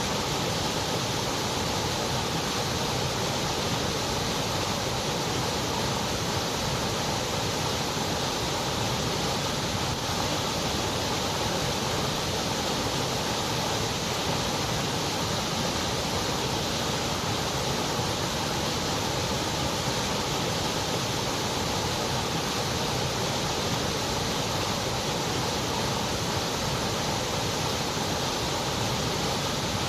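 Generated white noise: a steady, unchanging hiss.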